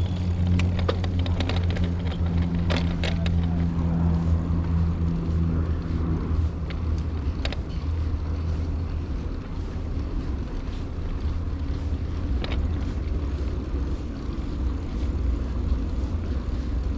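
Bicycle ride noise: a steady low rumble with scattered short clicks and rattles. A low, even hum fades out about six seconds in.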